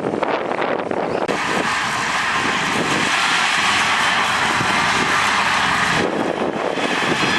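Heavy diesel earthmoving machine running hard: its engine noise rises about a second in with a steady whine over it, then eases off near the end.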